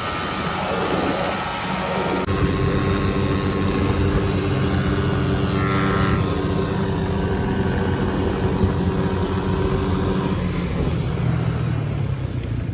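Small off-road engines at full throttle on a top-speed run. The revs rise and fall in the first couple of seconds, then hold steady at high speed, and ease off slightly near the end.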